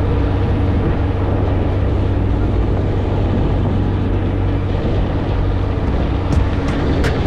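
Vehicle engine running steadily with road noise, a low even drone. A few light ticks come near the end.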